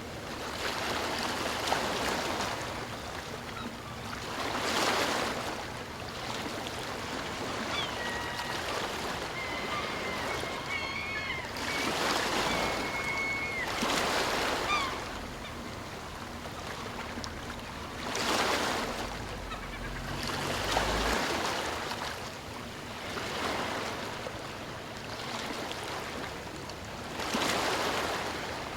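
Sea waves washing onto a shore, each swelling and ebbing every few seconds. A faint, thin, wavering whistle sounds from about a third of the way in to about halfway.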